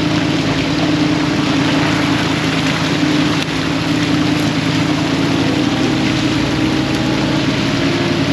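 Fishing boat's engine running steadily, a constant low hum under a broad hiss.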